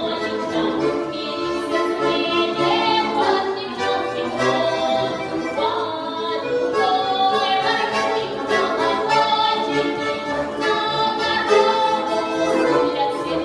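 A woman singing a song with instrumental accompaniment, holding long notes.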